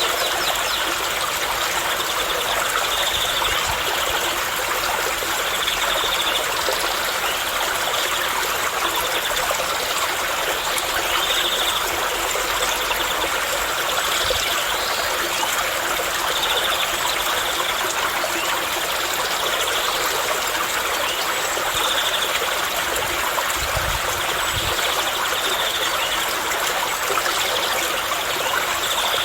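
Running water, a steady unbroken rush like a stream.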